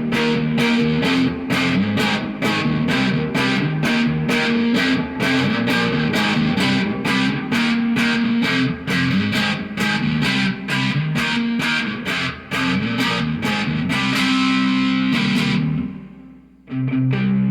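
Electric guitar with distortion played through an amplifier and effects: a rhythmic riff of evenly repeated picked chords, then a held chord that dies away about sixteen seconds in, with playing starting again just before the end.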